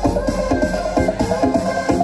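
Electronic dance music with a steady beat, a melody and heavy bass, played loud through a large sound system rig with many subwoofers.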